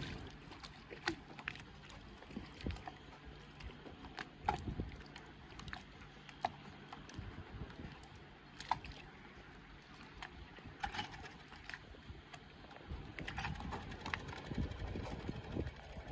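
Small dinghy outboard motor idling with a steady low hum, with scattered knocks and clicks. The hum stops about thirteen seconds in and louder low rumbling noise follows.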